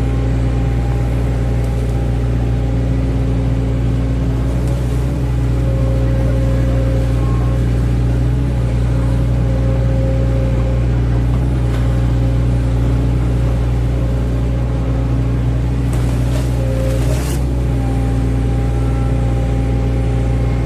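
Excavator's diesel engine running steadily under working load, its pitch shifting slightly now and then. A brief hissing or scraping burst comes near the end.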